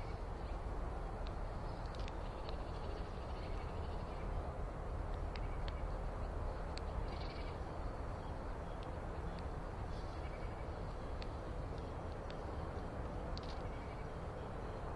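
Bird calls, short and spaced a few seconds apart, over a steady low background noise, with a few faint high ticks between them.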